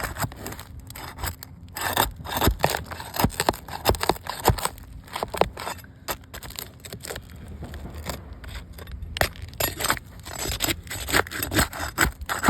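Irregular scraping with many sharp clicks and knocks, as of hands working on a hard object.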